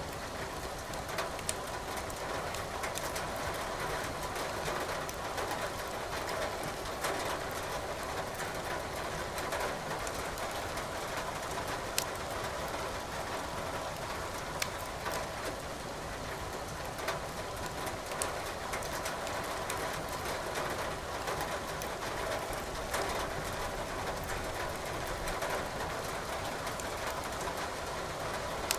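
Steady hiss of rain with sharp crackles and pops from burning firewood every few seconds.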